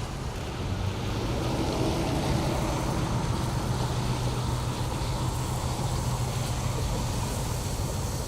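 Diesel locomotive running, a steady low engine drone that grows louder about a second in and then holds.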